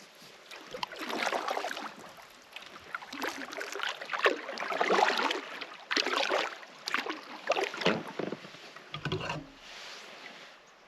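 Canoe paddle strokes in the water: a run of irregular splashes, one every second or so.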